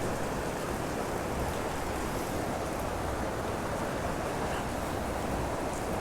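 Steady rushing of a flowing canyon stream, an even hiss of moving water with no breaks.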